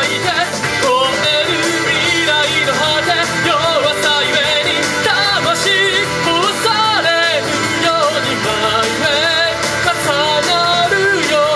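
Live singing with vibrato over loud, continuous rock-style band music.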